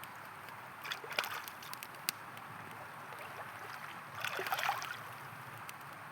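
River water flowing steadily, with the sharp pops and crackles of a wood campfire over it; two louder flurries of crackling come about a second in and again past the middle.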